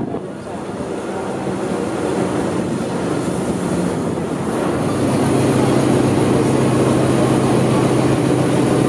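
Devil's Nose tourist train running slowly on its track, heard from a carriage window: a steady rumble and rattle that grows louder about halfway through, when a low steady engine hum comes in.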